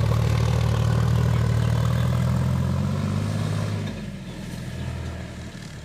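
Sonalika DI 50 RX Sikander tractor's diesel engine running steadily, then easing off about four seconds in.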